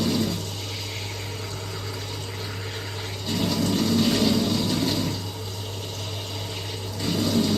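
Water rushing through plumbing in repeated surges, each about two seconds long and coming roughly every four seconds, over a steady low hum. The owner takes the noise to be made deliberately louder than it is.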